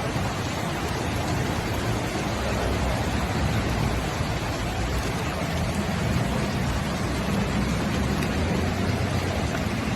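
Floodwater rushing past in a steady, loud wash of noise.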